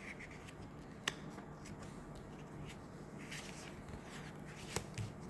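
Faint room hiss and low hum with a few sharp clicks and taps, the loudest about a second in and two more near the end.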